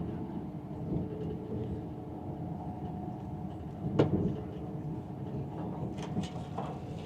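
Passenger train running along the line: a steady rumble with a steady hum, a sharp knock about four seconds in and a few lighter clicks near the end.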